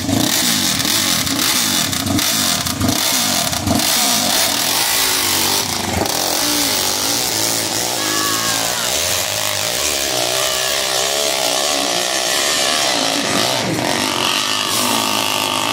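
Hillclimb dirt-bike engine revving in quick, repeated upward sweeps for the first few seconds, then running at a more even pitch.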